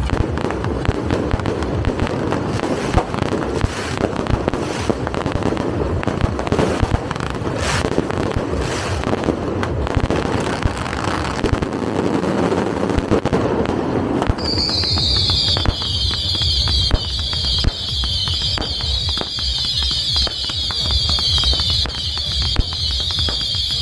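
Firecrackers and fireworks going off in a dense, unbroken crackle. About two-thirds of the way through, a shrill wavering whistle joins the crackling and carries on to the end.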